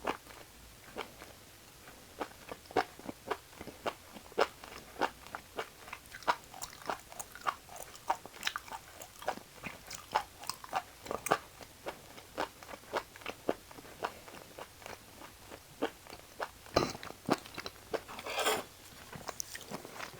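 Close-miked chewing of raw beef offal: a steady run of wet, crunchy clicks, about two or three a second. A heavier thump comes near the end, followed by a short rustling burst.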